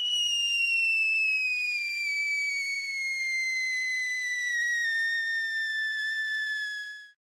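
A single high whistling tone that glides slowly and steadily downward in pitch for about seven seconds, then cuts off abruptly.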